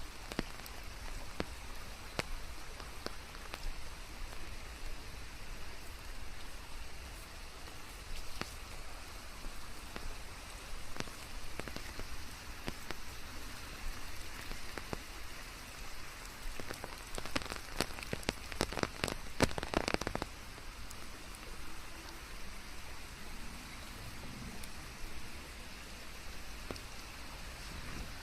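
Steady rain falling, with a constant hiss and scattered individual drops ticking on surfaces, blended with white noise. Two-thirds of the way through, a few seconds of heavier, closer drips patter more densely.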